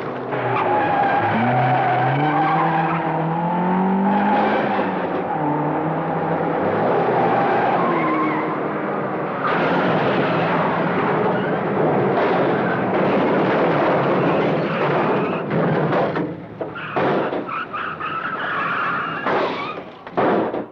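Car engines revving up and down with tyres squealing and skidding, in a film car chase soundtrack. The last few seconds break into a run of short sharp noises.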